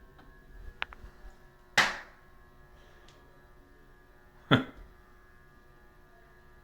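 A vintage Hampton Bay Southwind ceiling fan's motor hums faintly and steadily in several tones while turning very slowly on a dimmer set all the way down; the owner suspects its capacitor is going bad. A light click comes just under a second in, and two sharp, louder clicks come about two and four and a half seconds in.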